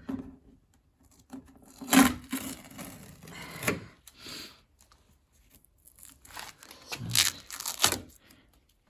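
Bursts of rustling, tearing handling noise: loudest about two seconds in, again near four seconds, and a cluster around seven to eight seconds.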